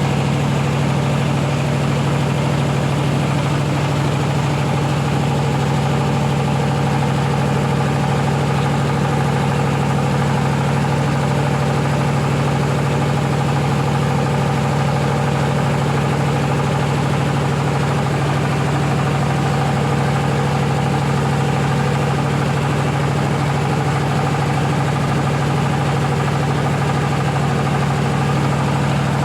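Rice-milling machine running steadily, a constant hum with a strong low drone.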